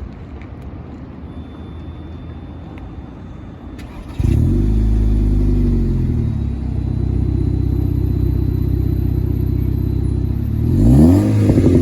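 Car exhaust through a 76 mm pipe: the engine comes on suddenly about four seconds in and runs at a loud, deep, steady idle. Near the end it is revved once, its pitch rising and falling back.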